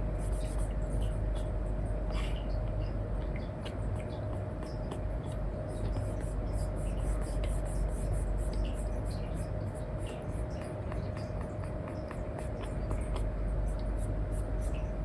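An Apple Pencil 2 with an Elecom nib scratching and tapping in quick short strokes across a paper-like screen film on an iPad, over a steady low hum.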